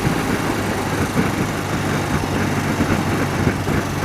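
BMW motorcycle engine running steadily on the move, with a constant rush of wind and road noise over it.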